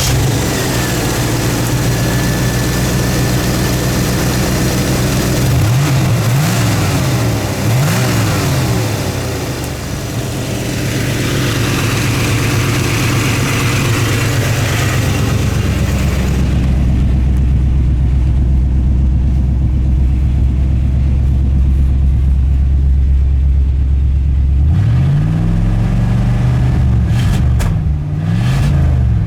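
Carbureted 305 (5.0 L) small-block Chevy V8 from a 1987 Firebird Trans Am running: idling steadily, with quick blips of the throttle twice about six and eight seconds in and several more near the end.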